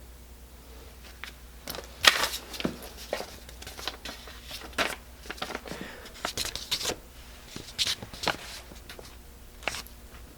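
Irregular clicks, light scrapes and rustles of hands working small metal parts of a Coleman 502 camp stove while a new gasket is seated. The sharpest click comes about two seconds in.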